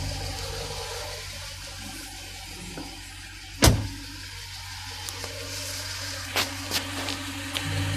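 Jeep Grand Cherokee SRT's 6.4-litre Hemi V8 idling steadily, with one loud sharp knock about three and a half seconds in and a few lighter clicks after it. The idle grows louder near the end.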